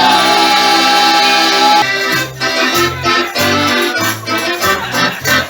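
Accordion playing an instrumental passage: a long held chord, then, about two seconds in, a bouncing oom-pah rhythm of bass notes and chords.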